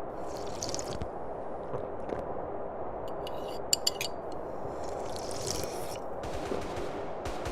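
A person sipping tea, with two airy slurps about a second apart from each other's ends. Between them come a few sharp clicks, two of them loud, over a steady low background hum.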